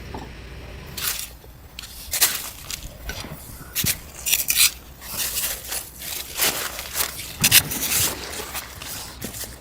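Irregular scraping and rubbing handling sounds: a run of short, uneven strokes starting about a second in.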